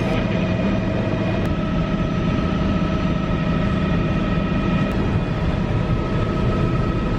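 Helicopter in flight heard from inside the cabin: a steady engine and rotor drone with a thin constant whine over it.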